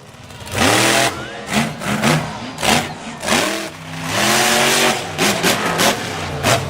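Monster truck engine revving hard in repeated throttle bursts, its pitch climbing and dropping several times.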